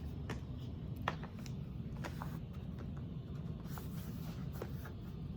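Faint scattered clicks and light rustling from a VHS tape case being handled, over a low steady room hum.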